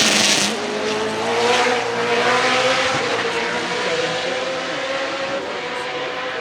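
Judd KV 675 3.4-litre V8 race engine in a BMW E36 hillclimb car, loud as the car passes close in the first half-second, then held at a high, fairly steady pitch as it pulls away, fading gradually.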